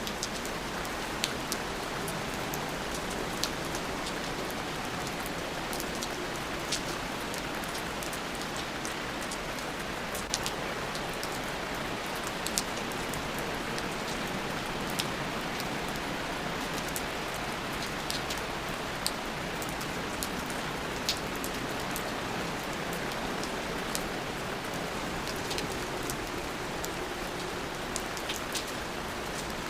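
Steady rain falling on a surface, with the sharp ticks of single drops scattered through it.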